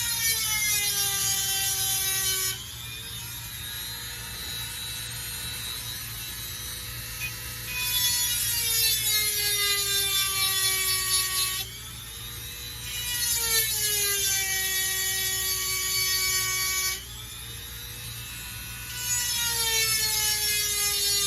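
Dremel rotary tool running at full speed with a 7/32-inch grinding stone, sharpening chainsaw chain cutters. It gives a high whine that drops in pitch and turns into a harsh grind each time the stone bears on a tooth. There are four passes of a few seconds each, and between them it eases back to a higher free-running whine.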